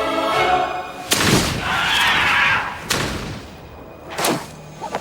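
Animated-film soundtrack: held music chords, then heavy thuds about a second in and near three seconds, with a rushing noise between them and another sharp hit near the end.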